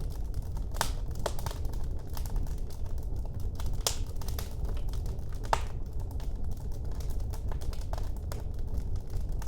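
Wood fire burning in a fireplace, crackling and popping irregularly over a steady low rumble of the flames, with a few sharper pops standing out.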